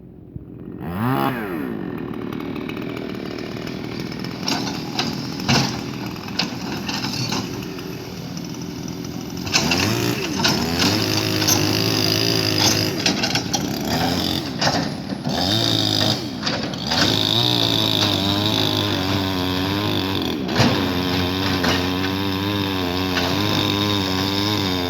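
Construction machinery engine running loud, its pitch rising and falling again and again as it revs under load, with scattered sharp clanks and knocks.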